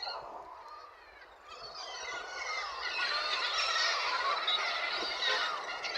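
A flock of poultry calling together at feeding time: many overlapping short chirps and peeps that swell louder about two seconds in.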